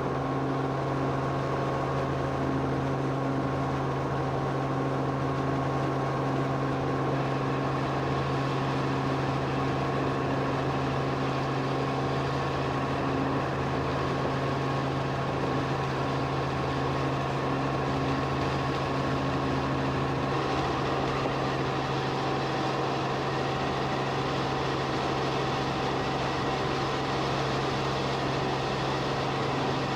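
Steady engine drone of an aircraft, recorded from inside the cabin during an aerial survey flight: a constant low hum with steady higher overtones. There are no changes in level.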